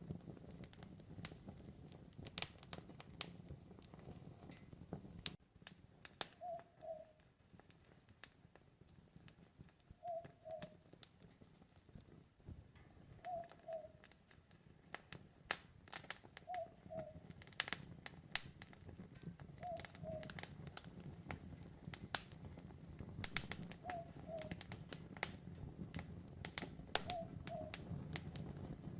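Campfire crackling with irregular sharp pops. Over it, an owl gives a short two-note hoot about every three seconds.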